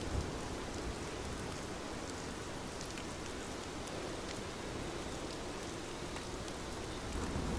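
Steady rain falling: an even hiss sprinkled with faint, scattered drop ticks.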